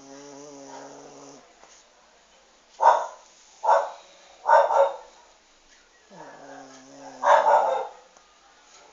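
Small dog growling in long, drawn-out grumbles, at the start and again about six seconds in, with four short, loud barks in between.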